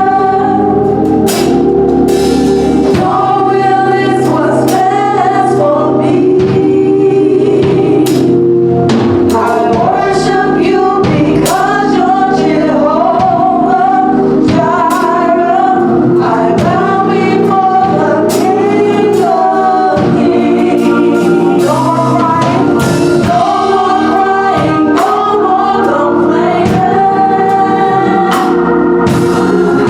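Gospel choir singing with full band accompaniment and a steady beat.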